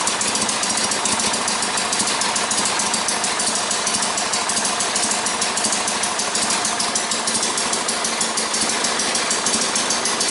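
Sears Suburban SS16 garden tractor's engine running at a low, steady idle shortly after a cold start, with an even, rapid firing beat.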